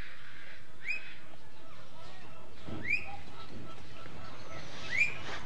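A bird chirping three times, about two seconds apart, each a short, quick upward-sweeping chirp.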